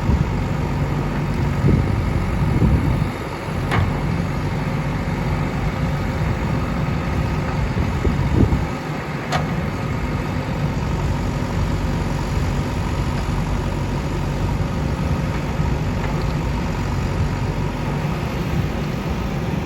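A steady engine drone, running evenly throughout, with a couple of short clicks about four and nine seconds in.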